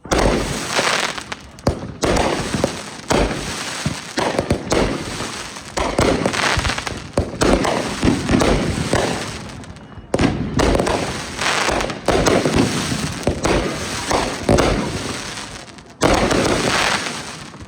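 Consumer fireworks going off in dense volleys of rapid crackling bangs and pops. Fresh volleys start abruptly about two, ten and sixteen seconds in.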